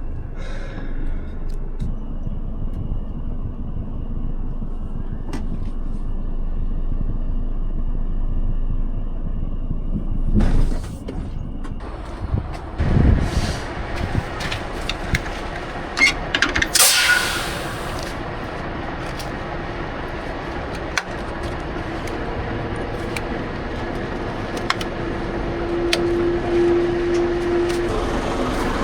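Scania R500 truck's six-cylinder diesel running with a steady low rumble, heard from the cab, with a few thuds around the middle and a short hiss of air a little past halfway.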